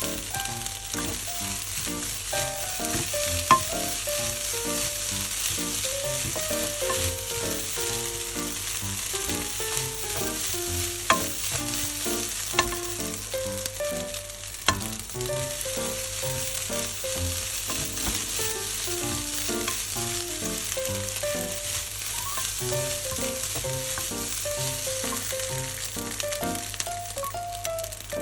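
Fried rice sizzling steadily in a hot frying pan as it is stir-fried, with a few sharp clicks of a utensil against the pan.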